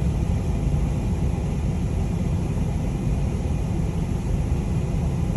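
Steady low rumble of a car's engine and tyres, heard from inside the cabin while driving on a snowy road.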